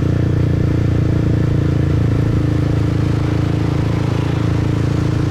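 Motorbike engine running at a steady pace while riding.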